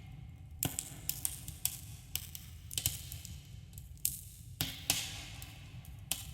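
Campfire burning: irregular sharp crackles and snaps of burning wood, a few brief hissing flares, over a steady low rumble, with a subtle echo from the cave around it.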